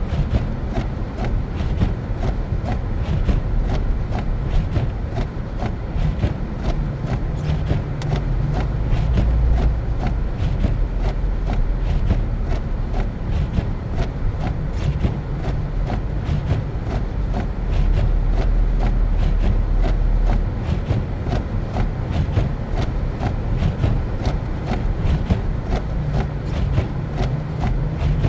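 A car driving on a snow-covered road: a steady low rumble of engine and tyres, with a constant patter of small ticks over it.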